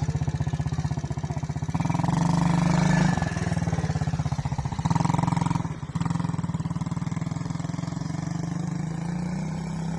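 Quad bike engine running steadily, with two brief swells of throttle, about two seconds in and again about five seconds in.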